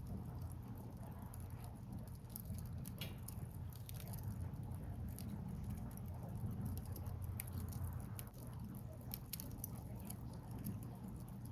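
Wood fire crackling: scattered sharp pops and snaps of burning logs over a steady low rumble.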